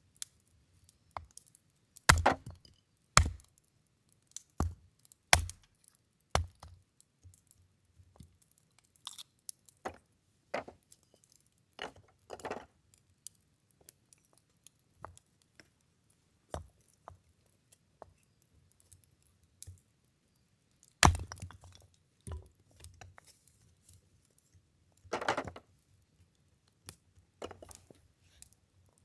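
Firewood being split by hand: sharp chopping strikes into wood, four in quick succession in the first few seconds and the loudest about two-thirds of the way through. Lighter knocks and clicks of wood pieces fall between them.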